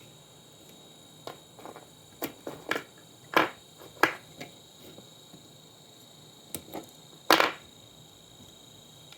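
A string of sharp clicks and knocks, about a dozen, loudest around three and four seconds in and again near seven seconds: parts of an old monitor being handled and pulled apart during a teardown.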